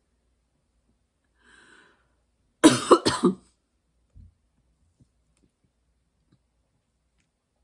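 A woman coughs two or three times in quick succession, loud and abrupt, after a faint intake of breath.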